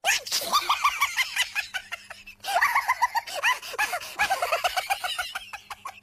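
Cartoon evil laugh sound effect: a rapid run of high-pitched "ha-ha-ha" laughing that starts suddenly. It breaks off a little over two seconds in, then starts again.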